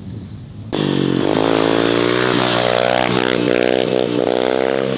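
Small four-stroke single-cylinder pit bike engine bursting into loud revving a little under a second in, its pitch rising and falling several times, echoing.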